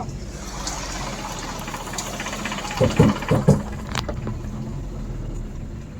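A vehicle's engine running steadily. A few short thuds come about three seconds in, and a sharp click about a second later.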